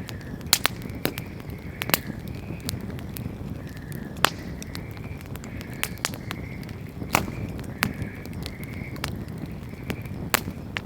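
Wood fire burning: a low, steady rumble of flames with scattered crackles and sharp pops from the burning wood, about five loud snaps a couple of seconds apart.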